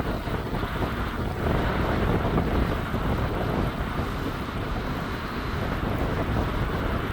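Gusty wind buffeting the microphone: a steady low rush with no clear tone, growing a little louder about a second and a half in.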